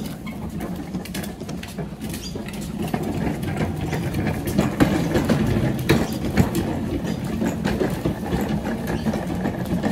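Little Tikes toy ride-on police car moving along: a steady rumble with rattles and clicks, growing louder about three seconds in.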